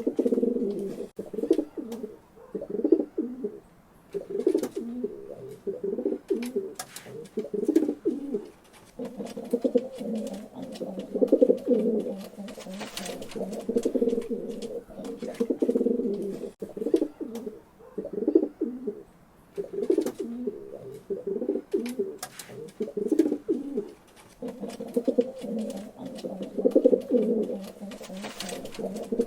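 Pigeons cooing continuously, low throaty calls repeated in phrases with short pauses between them, with occasional sharp clicks or flaps among them.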